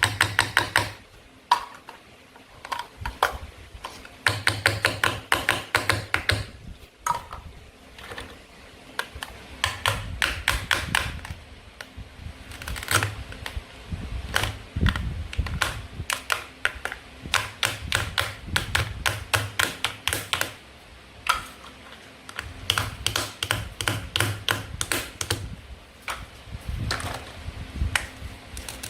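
Plastic toy fruit and vegetable pieces being handled: quick runs of hard clicks and taps in bursts throughout, with short pauses between them.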